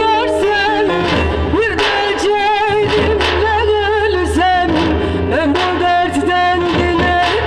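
Live Turkish folk music: a singer's ornamented, wavering melody over a plucked-string accompaniment.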